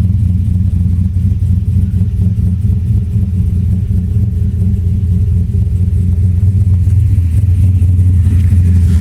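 Engine of a turbocharged 2002 Chevrolet Silverado running steadily with an even, low drone.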